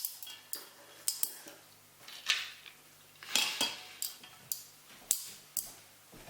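Dishes and cutlery clattering: an irregular run of sharp clinks and knocks, some with a brief ring.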